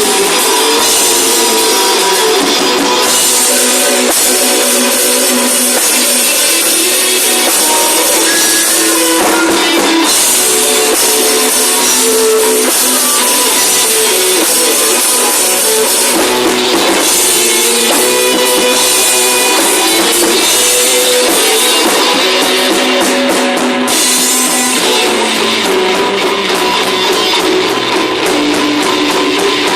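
Rock band playing live: electric guitars over a drum kit with cymbals, loud and dense, with little bass.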